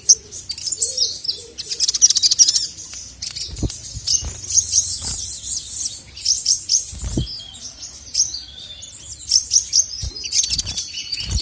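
Male sogon (sogok ontong), a sunbird, singing a fast, high twittering song of rapid chirps and trills, with a few short dull thumps in between.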